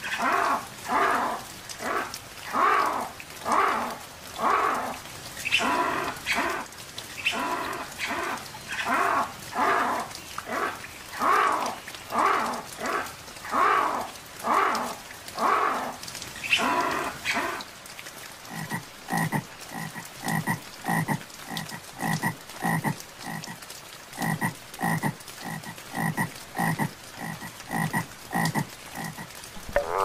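An animal calls over and over in a steady rhythm, roughly once every 0.7 seconds. About halfway through, this gives way to a frog croaking in quicker, evenly spaced pulses.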